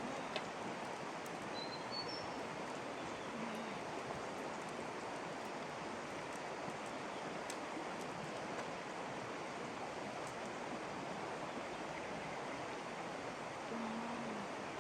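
Steady rush of flowing floodwater, with a brief high chirp about two seconds in.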